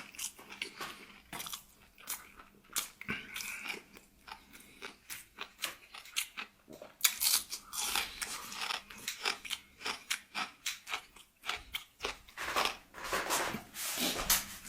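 A person chewing and biting crunchy food close to the microphone, with many irregular crisp crunches and mouth clicks.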